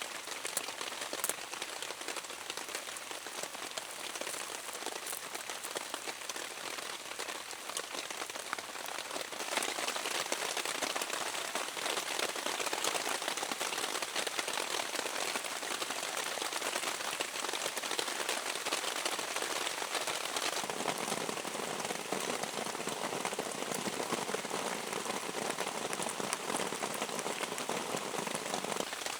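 Heavy rain falling steadily on the forest, a dense hiss of drops that grows louder about ten seconds in.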